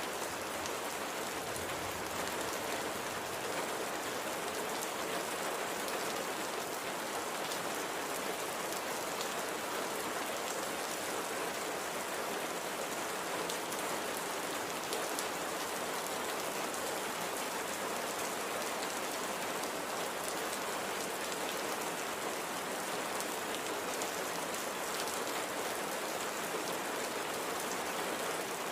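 Steady light rain falling, an even hiss with fine scattered drops.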